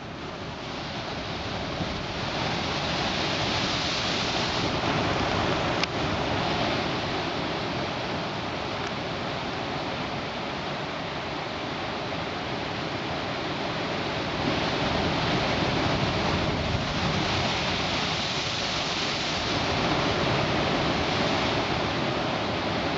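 Ocean surf washing steadily below the cliffs during a very high tide, swelling and easing a couple of times, mixed with wind buffeting the microphone; a single sharp click about six seconds in.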